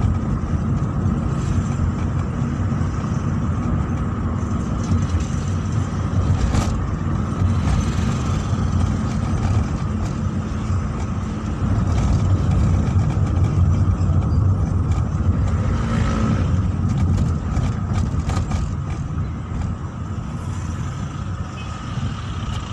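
Car driving in traffic, heard from inside the cabin: a steady low rumble of engine and tyres that rises a little about halfway through, with one sharp click about a third of the way in.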